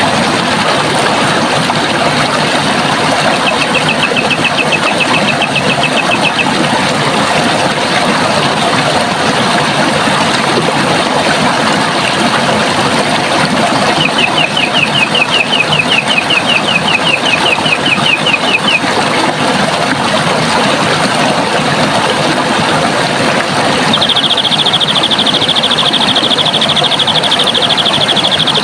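Running water rushing steadily, with a bird's rapid trill of short repeated notes heard twice. A higher, denser trill comes in near the end.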